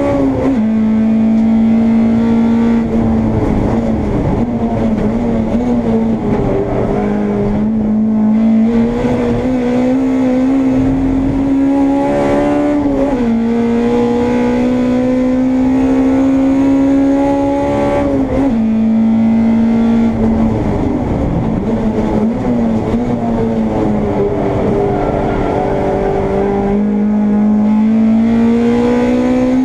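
Honda Integra race car's four-cylinder engine under hard acceleration. Its pitch climbs steadily through each gear and drops sharply at three upshifts, and twice it sinks slowly as the car slows.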